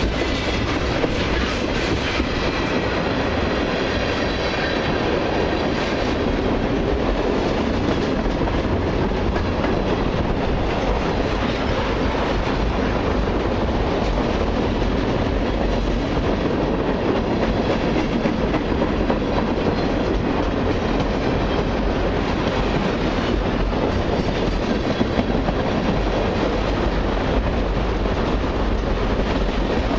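Freight cars of a long autorack and mixed freight train rolling steadily past, a continuous rumble with fine wheel clicks on the rails.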